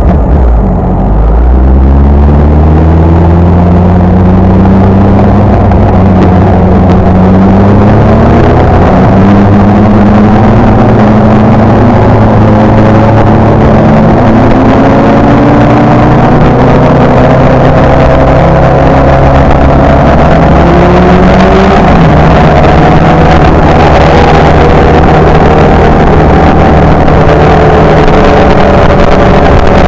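Motorcycle engine under way, pulling steadily with its pitch climbing slowly in each gear and dropping back at upshifts, about a second in, about eight seconds in and about twenty-one seconds in.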